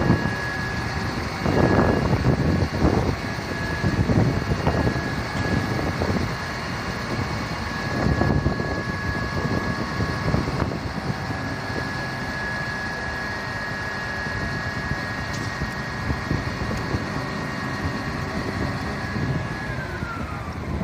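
A vehicle running with a steady high whine that glides down in pitch near the end. Gusts of wind hit the microphone several times in the first half.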